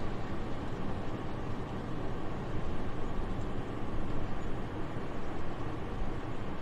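Soft, steady winter wind: an even, low rush with no gusts, no clicks and no other sounds.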